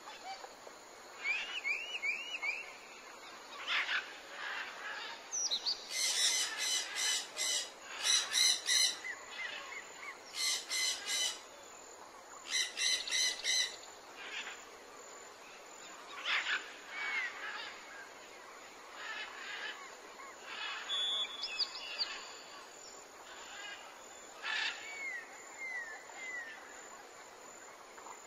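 Birds calling: short chirps and arching whistled notes, with several bursts of rapid repeated calls between about six and fourteen seconds in.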